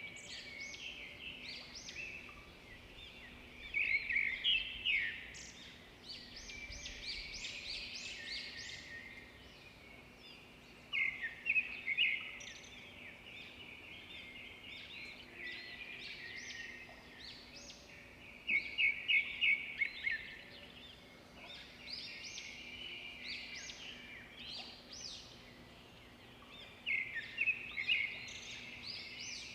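Songbirds singing and chirping, with a louder burst of quick repeated notes about every seven or eight seconds.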